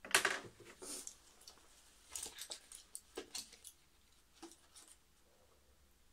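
Dog coughing in a run of short hacking coughs, the loudest right at the start, stopping about five seconds in.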